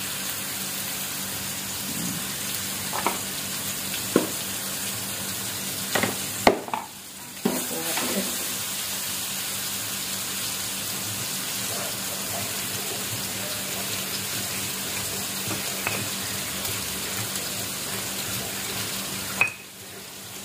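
Steady sizzling of food frying in a wok on a gas stove, with a few sharp knocks in the first part. The sizzle briefly drops away twice.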